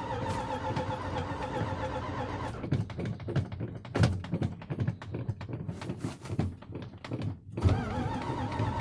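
Small-block V8 engine running cold. A steady running sound breaks up after a couple of seconds into about five seconds of irregular knocks and pops, then steadies again near the end.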